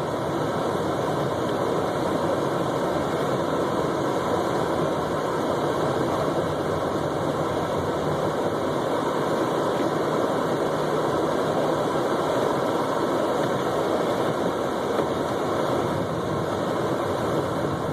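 Steady engine and road noise of a car driving slowly through a snowstorm, heard from inside the cabin, with no sudden changes.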